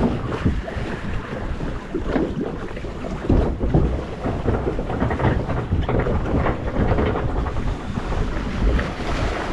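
Onride sound aboard a water ride boat: wind buffeting the microphone over a deep, steady rumble, with rushing and splashing water.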